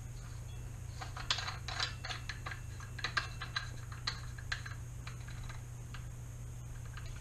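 Irregular light clicks and small knocks of a mag-fed paintball marker's barrel parts being handled and turned, clustered in the first few seconds and thinning out after.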